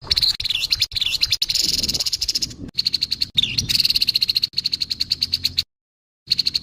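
Grey-headed babbler giving its harsh rattling call: fast pulsed high notes, about ten a second, with a few slurred notes mixed in. It cuts off abruptly near the end and starts again after a short gap.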